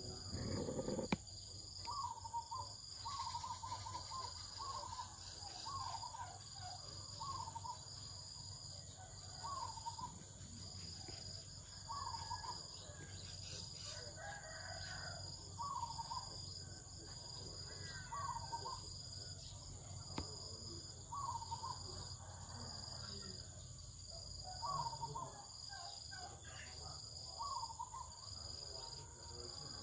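Outdoor morning ambience: a bird repeats a short call about once a second over a steady high insect drone, with other bird calls now and then.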